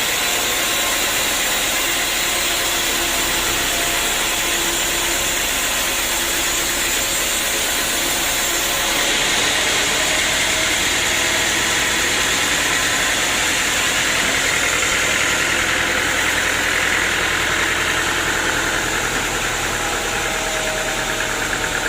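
Sawmill machinery running steadily: a continuous mechanical drone with a noisy hiss over it.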